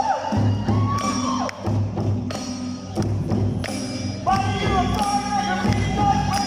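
Live Awa Odori festival music: drums keeping a steady beat under sharp clanging strikes, and a held high melody line that comes in about four seconds in.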